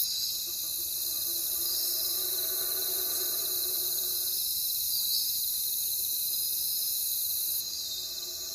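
A dense, steady chorus of crickets trilling, with a faint low hum underneath during the first half. About three-quarters of the way through, the chorus drops abruptly in level.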